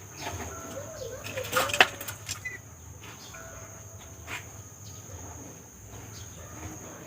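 Birds calling: a few wavering notes, then a burst of loud, sharp squawks about a second and a half in and a short chirp after. A steady high insect-like drone runs underneath.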